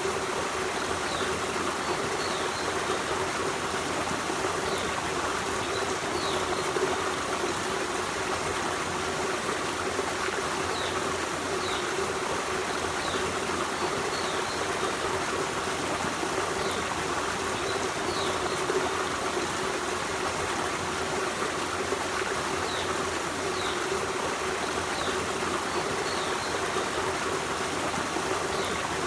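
Forest stream running steadily, with short high chirps every second or two.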